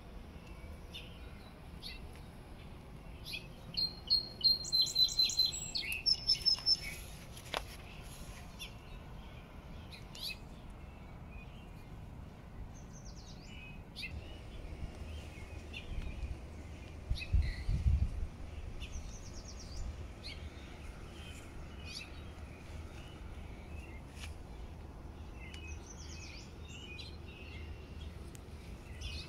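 Songbirds chirping and singing, with a louder run of quick repeated high notes about four to seven seconds in. A brief low rumble comes a little past halfway.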